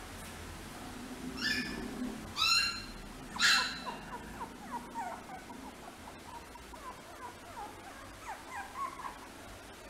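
Chihuahua puppy giving three loud, high-pitched yelps with falling pitch, then whimpering in many short, faint squeaks.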